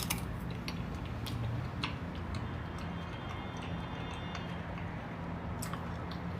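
Quiet eating at the table: a few light, sharp clicks spaced a second or more apart over a low steady hum.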